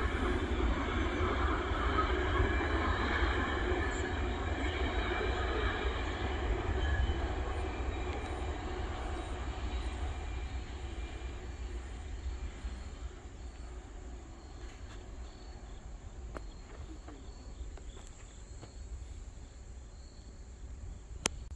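Freight train cars rolling along the rails, the sound fading steadily as the train moves away. Crickets chirp faintly as it dies down.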